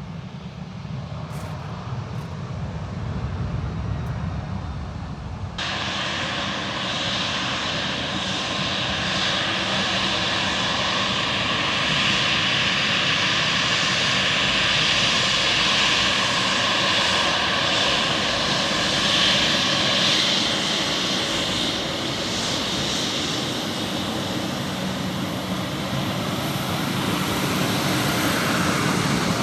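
Jet airliner's turbofan engines running at takeoff power on departure: a loud, steady noise with high whining tones. The sound changes abruptly about five seconds in, becoming louder and brighter, and stays strong to the end.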